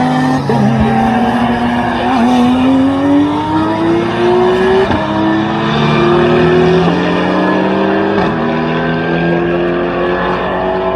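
Racing car engines at full throttle. Their pitch climbs steadily and drops back sharply at each gear change, a few seconds apart.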